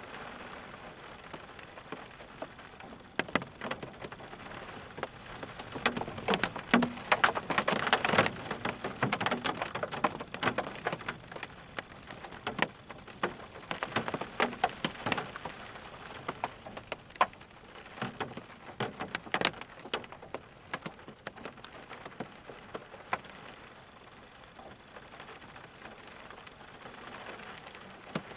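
Rain falling, a steady hiss with many sharp individual drops striking close by, the drops thickest and loudest from about six to ten seconds in.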